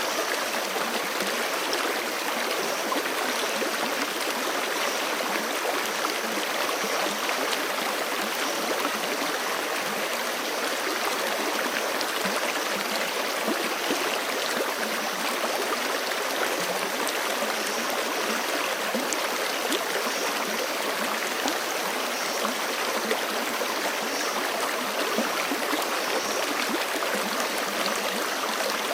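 Forest creek rushing steadily, an even, unbroken wash of flowing water.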